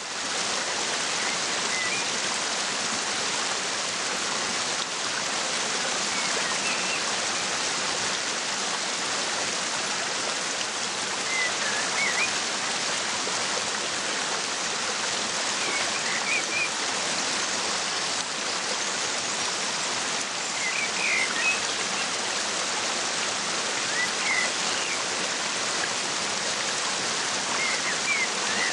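Waterfall rushing steadily, with short bird chirps every few seconds.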